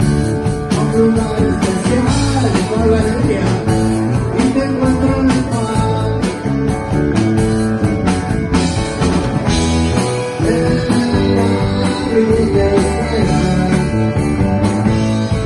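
A rock band playing live: a loud instrumental passage with electric guitar and bass.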